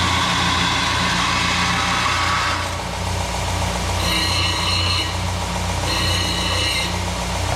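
Electric grinder running steadily while steel strap is ground against it to deburr and round off its corners: a rough grind for the first couple of seconds, then two shorter passes with a high ringing whine, about four and six seconds in.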